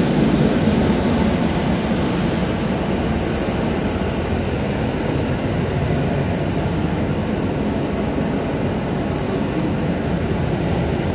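Ride noise inside a moving EN57AKM electric multiple unit: a steady, mostly low running noise of the train under way, a little louder in the first second.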